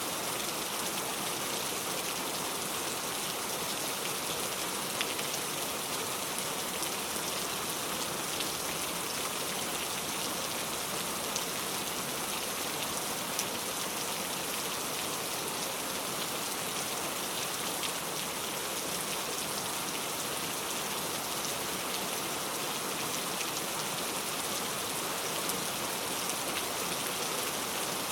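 Steady rainfall: an even hiss of rain with scattered individual drops landing.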